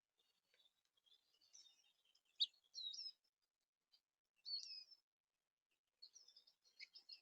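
Small songbirds giving faint, short, high chirps and calls, with the sharpest call about two and a half seconds in and a quick run of chirps near the end.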